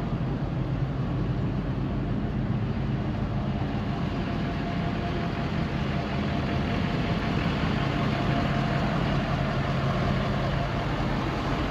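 2011 Ford F350 pickup's engine running steadily, a low even hum.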